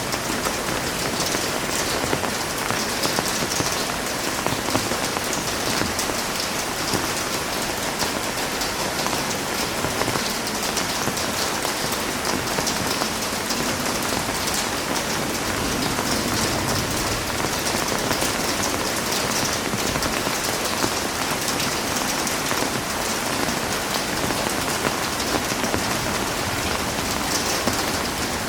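Heavy rain falling in a steady, dense downpour, with a faint wind.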